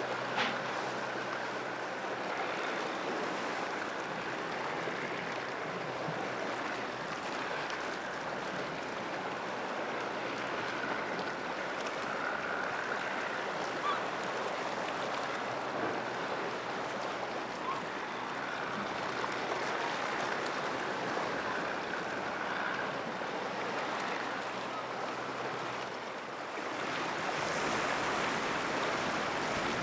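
Sea surf washing steadily against the shore, with a little wind. It grows louder near the end.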